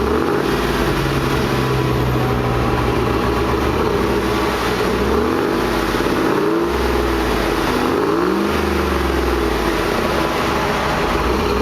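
2008 Chevrolet Tahoe's 5.3-litre Vortec V8 running loudly and being revved several times, the engine note climbing and falling back between steady running.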